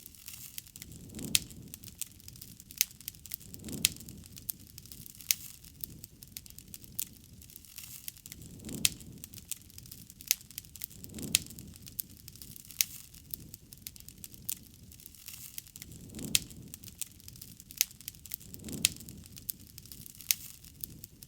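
Campfire of burning wood crackling, with frequent sharp pops and a few louder snaps, over a low rush of flame that swells softly every two to three seconds.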